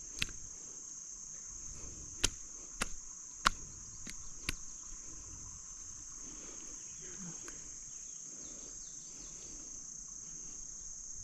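A steady high-pitched insect chorus, with a handful of sharp clicks in the first few seconds.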